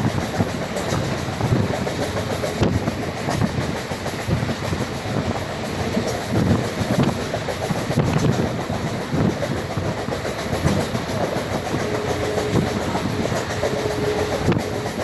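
Indian Railways train running along the track: a steady rumble with the clickety-clack of wheels over rail joints. A faint steady tone comes and goes twice near the end.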